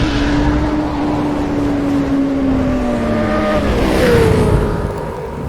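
Suzuki Hayabusa sport bike's inline-four engine running under way, its pitch sagging slowly, then dropping quickly about three and a half seconds in and steadying lower.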